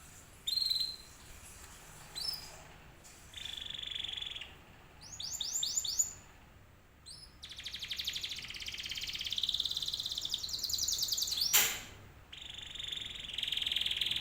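Domestic canary singing a varied song as a lure to set other canaries singing. It gives short high whistled notes and a run of quick falling sweeps, then a long fast trill, then a sharp falling note, then more phrases.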